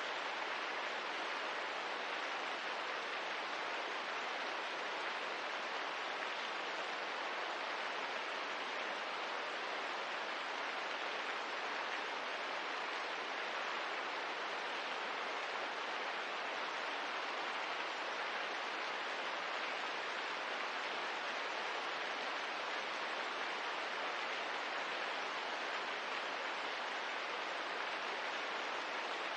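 Steady rain ambience: an even, unbroken hiss of soft rain with no separate drops or knocks standing out.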